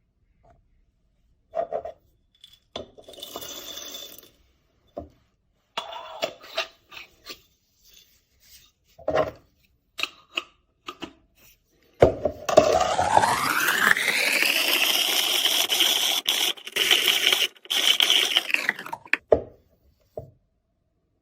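Metal clinks and scrapes of a stainless-steel manual coffee grinder's parts being handled. Then a long pour of about seven seconds into a container, its pitch rising as the container fills.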